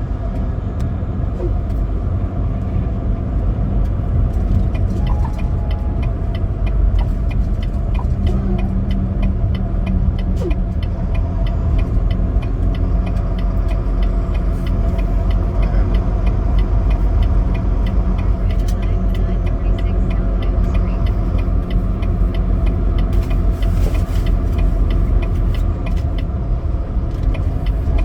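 Semi truck driving, its diesel engine running steadily under a low rumble of road noise, with a fast, even ticking over it.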